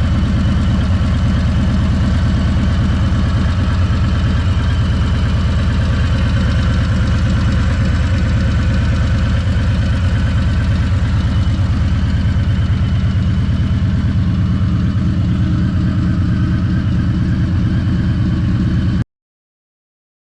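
Harley-Davidson Fat Boy's Milwaukee-Eight 114 V-twin idling steadily through a Two Brothers Racing 2-into-1 shorty turnout exhaust after a cold start. The sound cuts off suddenly near the end.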